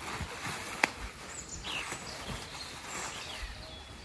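Birds chirping outdoors in short, scattered calls, with a sharp click just under a second in and a few soft low thuds.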